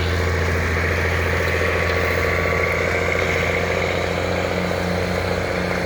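An engine running steadily at constant speed, a low hum with a steady higher whine.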